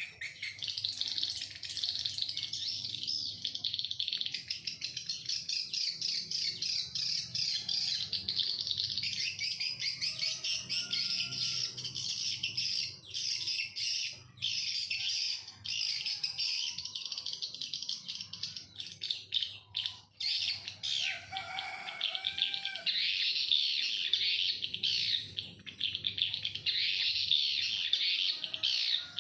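Swiftlets twittering: a dense, unbroken mass of high chirping calls, with a few lower squeaky calls about three-quarters of the way through.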